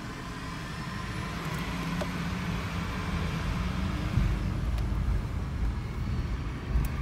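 In-cabin engine and road noise of a 2007 Toyota Sienna minivan's 3.5-litre V6 moving off slowly and turning: a steady low rumble that rises a little about halfway through, with a few light clicks.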